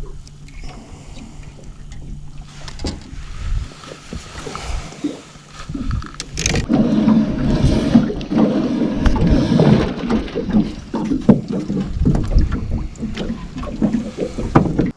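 A fishing boat's outboard motor running, starting with a steady low hum and then going much louder from about six seconds in as the boat gets under way, with irregular knocks over the engine noise.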